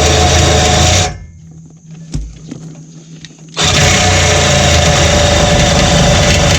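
Reciprocating saw (Sawzall) with a dull blade cutting through the steel exhaust pipe at the muffler. It stops about a second in, a couple of light clicks follow during the pause, and the cutting resumes after about two and a half seconds.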